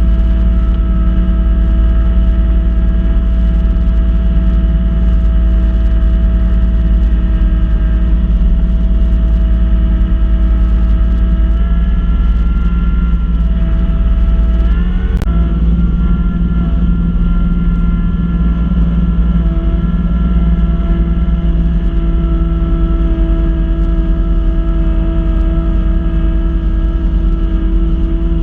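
Kubota B2650 compact tractor's three-cylinder diesel engine running steadily while driving the front-mounted B2782 snow blower. The engine note shifts briefly about halfway through, with one sharp click.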